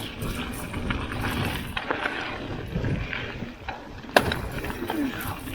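Mountain bike being ridden down a dirt trail, with steady tyre and rattling noise. About four seconds in there is a sharp clack: the worn chain snapping.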